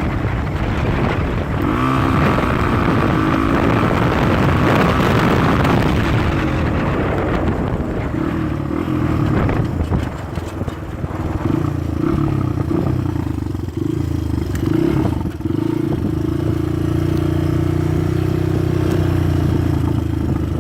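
Dirt bike engine running under way as it is ridden, with wind rushing over the microphone through the first several seconds, then settling to a steady engine note.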